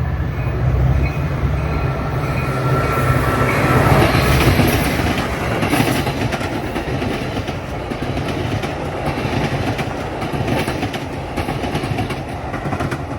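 Train passing close by: a steady heavy rumble with the wheels clicking rapidly over the rail joints, loudest about four seconds in.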